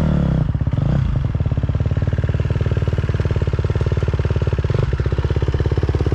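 Dirt bike engine idling steadily close by, with a short blip of the throttle about a second in.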